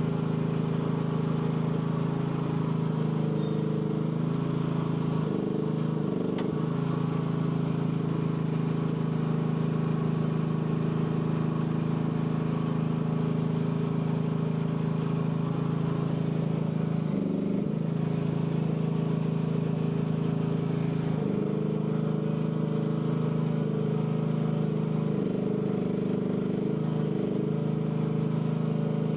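AGT L12 mini excavator's engine running steadily at working speed, its pitch sagging briefly several times as the hydraulics take load.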